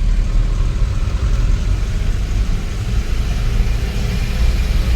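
Steady low rumble of riding a TVS Scooty: wind buffeting the microphone over the running scooter and road noise.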